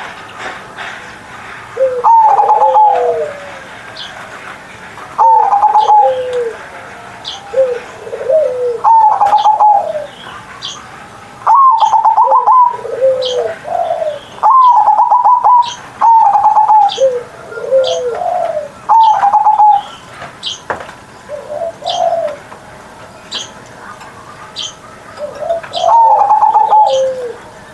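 Zebra dove (perkutut) cooing loudly in repeated rolling song phrases a few seconds apart, each a quick run of low notes.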